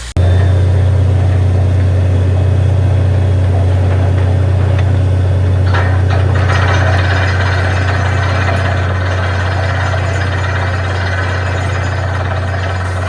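Borewell drilling rig's engine running steadily with a strong deep hum. About six seconds in, a rushing noise higher up joins it.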